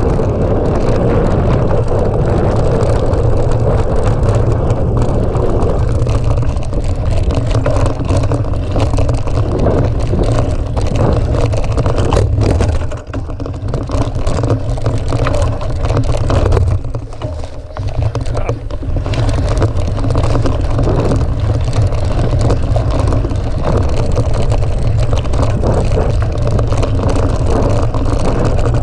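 Wind buffeting the camera microphone while riding a mountain bike, a loud low rumble, with the bike clattering and rattling over rough ground. The noise eases briefly twice, about halfway through and again a few seconds later.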